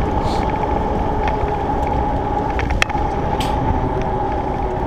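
Surly Krampus mountain bike rolling on pavement: a steady rush of tyre and wind noise with a constant hum, and a few sharp clicks and rattles from the bike.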